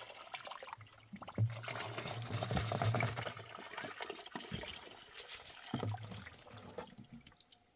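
Water running or trickling, with a low hum coming in about a second and a half in and again near six seconds.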